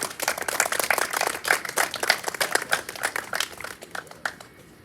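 A small group of people clapping hands in applause, dense at first, then thinning out and stopping about four and a half seconds in.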